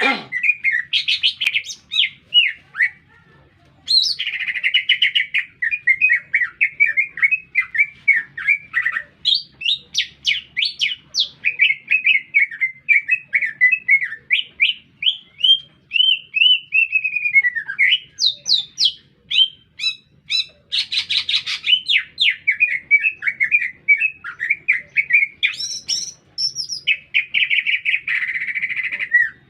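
Cucak ijo (green leafbird) in full song: a long, fast, varied string of high chirps, whistles and short slurred notes, broken by buzzy rattling phrases near the start, about two-thirds through and near the end, with a brief pause a few seconds in.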